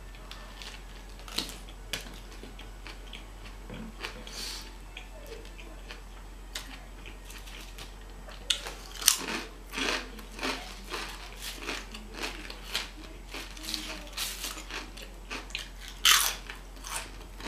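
Mouth sounds of eating: soft chewing of a sandwich, then from about eight seconds in, crisp chips crunching as they are bitten and chewed, with the loudest crunch near the end.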